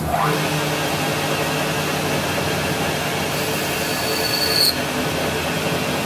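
Metal-working machine cutting steel: a steady noisy whir over a hum, starting suddenly. A thin high squeal builds about three and a half seconds in and cuts off just before five seconds.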